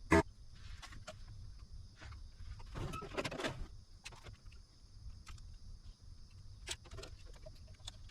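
A sharp click, then a short rustle about three seconds in and a few faint clicks, over a faint steady high whine.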